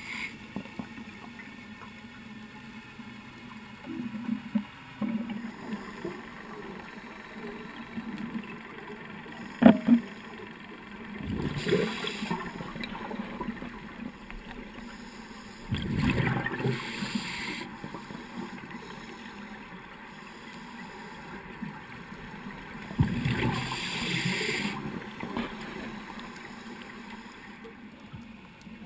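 Underwater sound of scuba diving: a diver's regulator exhaling, with a rush of bubbles every five to seven seconds, over a steady low hum. A sharp knock comes about ten seconds in.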